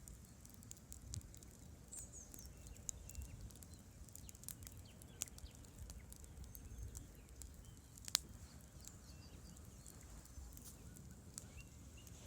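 Campfire burning with irregular crackles and small pops over a low, steady rumble, with one sharper pop about eight seconds in.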